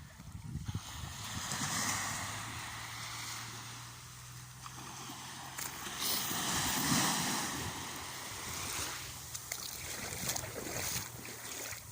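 Sea water washing and sloshing in small waves, swelling twice, with some wind on the microphone.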